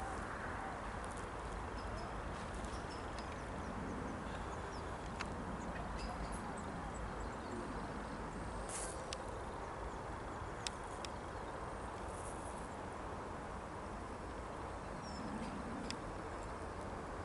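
Faint outdoor ambience: a steady low hiss and rumble, with a few faint, short calls from distant waterfowl and scattered small clicks.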